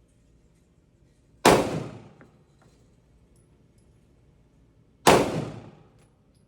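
Two pistol shots about three and a half seconds apart, each a sharp crack followed by a short echoing decay.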